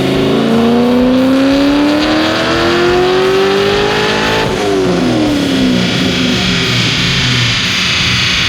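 Supercharged C6 Corvette Grand Sport's 6.2-litre LS3 V8, fitted with a Borla Attack exhaust, making a dyno pull: the revs climb steadily for about four and a half seconds. Then the throttle shuts, the revs fall away, and a steady rushing hiss is left.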